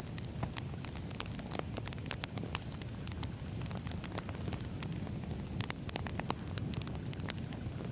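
Wood fire burning, with a steady low rumble and irregular sharp crackles and pops of the burning logs.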